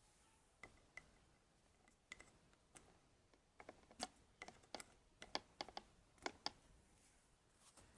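A series of light, irregular clicks and taps, busiest in the middle, like small hard objects being handled. No machine is running.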